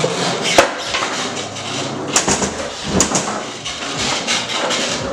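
Skateboard wheels rolling on a hard basement floor, with a few sharp clacks of the board striking the floor, about a second apart.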